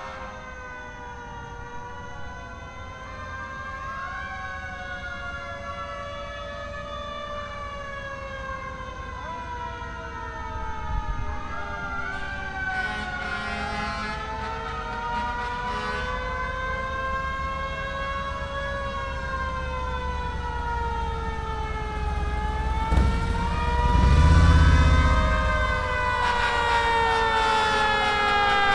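Several fire engine sirens wailing together, each slowly rising and falling in pitch and overlapping the others, growing louder as they approach. A loud low rumble comes in about two-thirds through.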